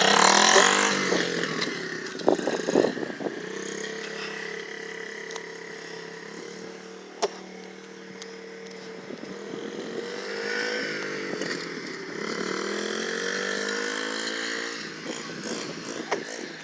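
Small 110cc pocket-bike engine running: revved hard at the start, then running steadily, its pitch rising and falling a couple of times as it is ridden. A sharp click sounds about seven seconds in.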